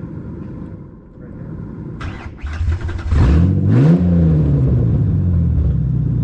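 Ford Explorer's engine starting: it catches about three seconds in, revs up once and falls back to a steady idle.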